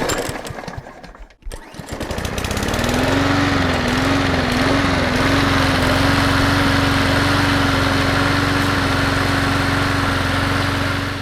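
Toro 22-inch Recycler push mower engine starting and running. After a short first burst and a brief pause, it picks up to speed, its pitch wavering for a couple of seconds before it settles into a steady run.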